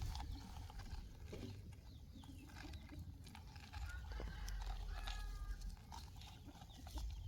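Quiet outdoor background: a steady low rumble on the microphone, with a few faint short bird calls about three and five seconds in.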